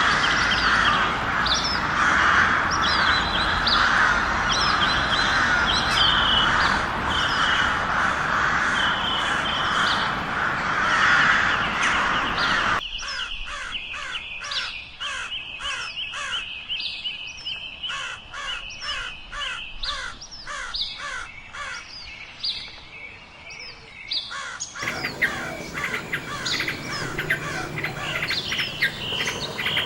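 Birds chirping and calling, in three spliced clips that change abruptly about 13 seconds in and again near 25 seconds in. The first is a dense chorus, the middle is quieter with rapid repeated chirps, and the last is busier again.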